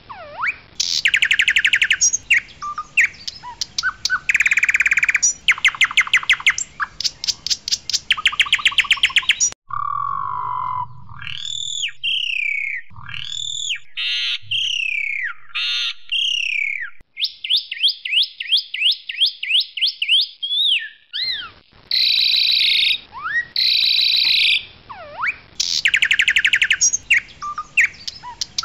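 Asian pied starling (jalak suren) singing loudly. Rapid rattling trills and buzzy repeated notes give way, about ten seconds in, to clear rising-and-falling whistles and a quick run of short falling notes. The rattling trills return about seven seconds from the end.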